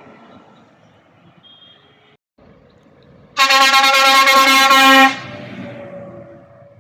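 A truck's air horn sounds one long, loud blast of about a second and a half, then cuts off abruptly. Road traffic hums beneath it, and a lower engine tone fades away after the horn.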